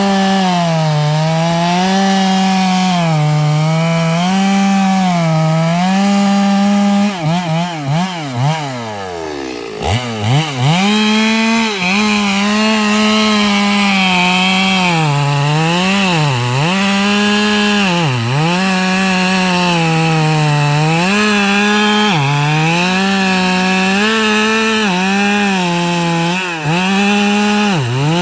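Stihl MS 382 two-stroke chainsaw cutting eucalyptus logs at full throttle, its engine pitch sagging and recovering again and again as the chain loads up in the wood. About seven seconds in it falls to idle for a couple of seconds, then revs back up into the cut.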